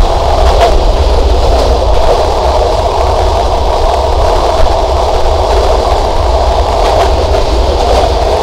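Sundarban Express passenger train running steadily, heard from on board: a constant rumble with a few faint clicks.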